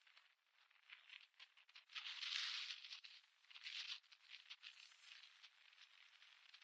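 Faint wind buffeting and hissing on the microphone in uneven gusts, with small crackles, strongest about two seconds in.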